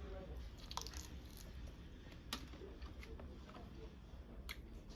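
A person chewing and biting duck curry close to the microphone, with faint wet mouth sounds and a few sharp clicks.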